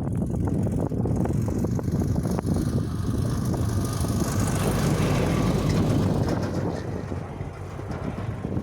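GAZ-66 truck's V8 petrol engine running steadily under load as the truck drives through snow, easing off slightly near the end.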